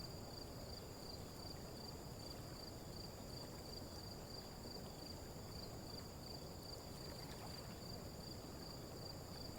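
Faint, steady high-pitched trilling of insects, two even tones held without a break, over a low background hiss.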